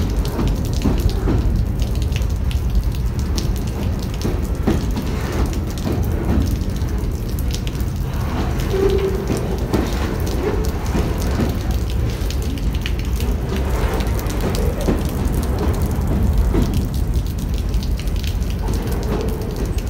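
A New York & Atlantic Railway freight train's high-sided open freight cars rolling past close by: a steady low rumble of steel wheels on rail with frequent clicks and clatter, and a brief ringing tone about nine seconds in.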